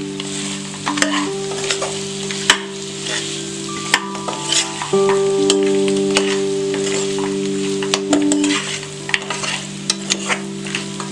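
Mutton pieces frying and sizzling in a pan as chili powder is stirred into them, with scraping and sharp clinks of the spoon against the pan now and then.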